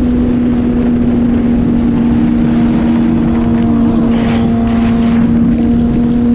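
Suzuki GSX-R motorcycle engine running at a steady engine speed while riding, one even pitch held throughout, with rushing noise underneath.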